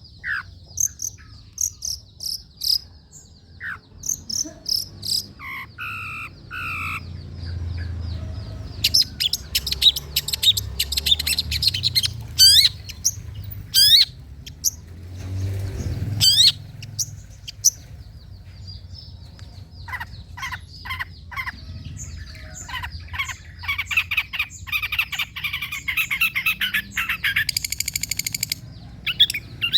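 Long-tailed shrike (cendet) singing a long, varied song of quick chirps, sweeping whistles and fast trills, with a harsh rasping burst about halfway through. A steady high insect trill runs underneath for stretches.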